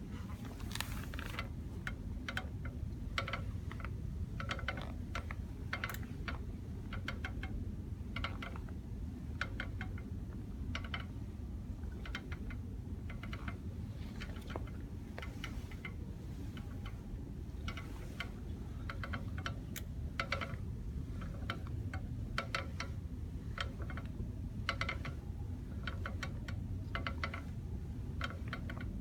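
A car's rear brake rattling: short, irregular clicks and ticks, several a second, over a steady low rumble.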